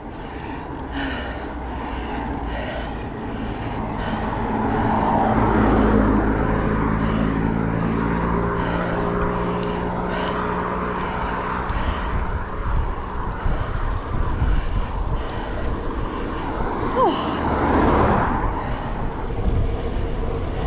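Wind rushing over a helmet-mounted action-camera microphone on a road bike at speed. A motor vehicle passes about four seconds in, its engine tone slowly falling in pitch as it goes by.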